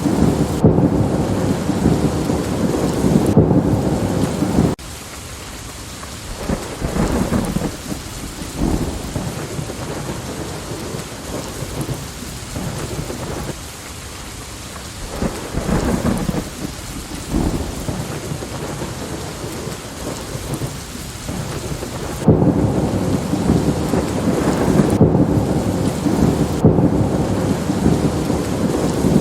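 Steady rain with thunder rumbling. A heavy low rumble stops abruptly about five seconds in, leaving the rain with fainter, intermittent rumbles, and the heavy rumble comes back just as suddenly near the end.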